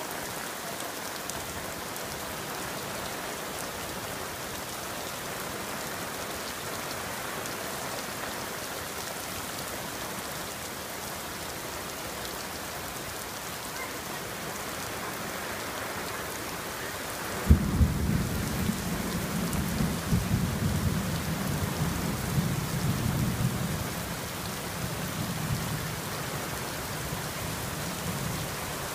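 Heavy tropical rain shower falling steadily, an even hiss. About two-thirds of the way in a sudden low rumble breaks in, lasts several seconds and dies away.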